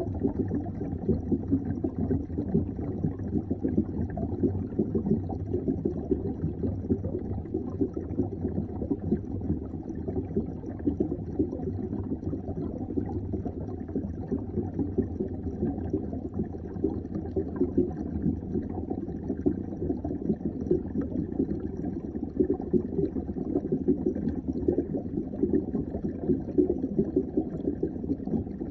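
Steady, muffled bubbling and churning of water, heard underwater.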